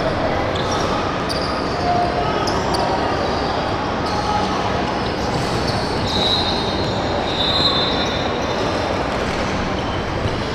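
Youth basketball game on an indoor court: a ball bouncing over a steady wash of crowd and gym noise, with high-pitched squeals, probably shoes on the hardwood, from about six to eight seconds in.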